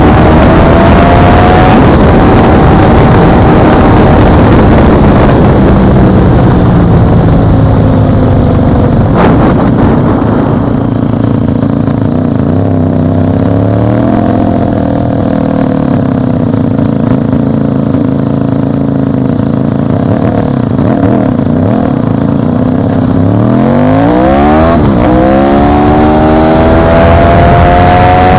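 Motorcycle engine running under way, heard close over heavy wind and road noise. The engine note eases off at first, holds fairly steady, then climbs in quick rising sweeps near the end as the bike accelerates through the gears, settling at a higher pitch.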